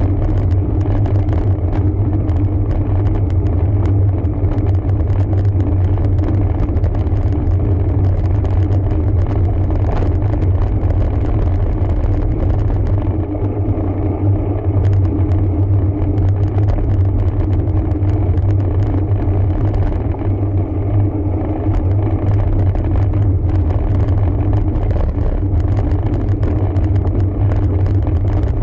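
Steady low rumble of wind and tyre noise on the microphone of a camera riding along on a road bike, unbroken throughout.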